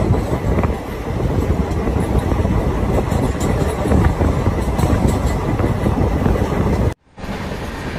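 Passenger train running at speed, heard from an open coach door: a continuous rumble of the coaches on the track with wind buffeting the microphone. The sound cuts out for a moment near the end and then resumes.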